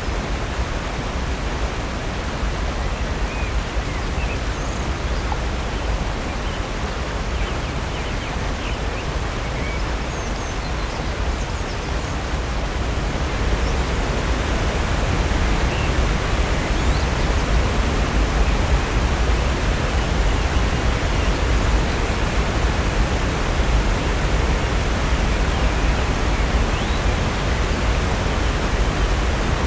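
Steady rush of falling water from a waterfall and its creek, a little louder from about 13 seconds in, with a few faint bird chirps above it.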